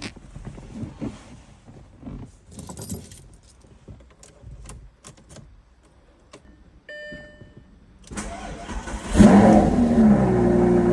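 Light rattling and clicks, then a short electronic beep about seven seconds in. A second later the Lamborghini Gallardo's V10 is cranked by the starter, catches with a brief rev flare and settles into a steady idle near the end.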